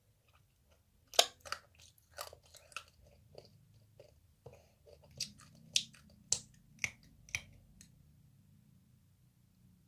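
Close-up chewing and crunching of candied tangerine tanghulu, its hard sugar shell cracking between the teeth. A run of sharp crunches, about two a second, starts with the loudest one and dies away after about seven seconds.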